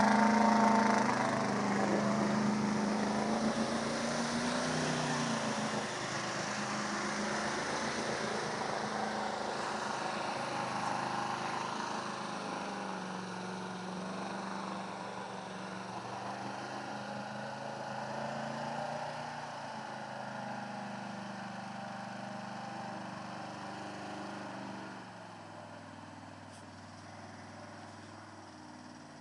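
An old 4x4 truck's engine revs, then runs steadily, growing gradually fainter.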